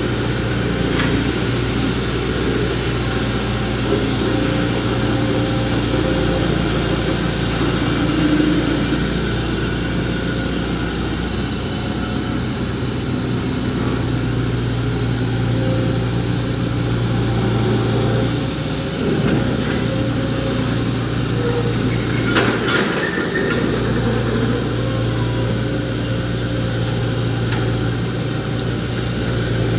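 Diesel engine of heavy construction equipment running steadily at a concrete pour, a low engine hum. About three quarters of the way through, the hum briefly drops and a short, sharper noise breaks in.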